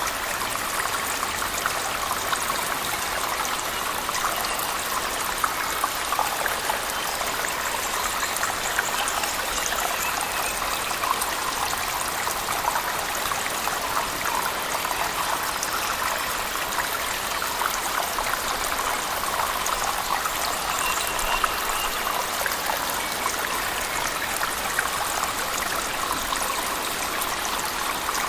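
Steady rush of a cave waterfall mixed with heavy rain, full of fine splashing drips, even throughout.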